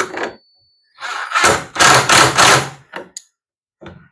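Handling noise from working on a plastic pool ladder and its bolt hardware: a loud run of scraping, rustling strokes lasting about two seconds, then a few light knocks.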